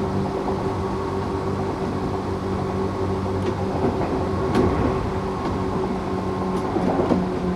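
Tokyu 8500 series electric train running, its Toyo-made traction motors and gearing giving a steady hum of several held tones over wheel-and-rail rumble. A few faint clicks throughout, with louder rattling moments about halfway through and near the end.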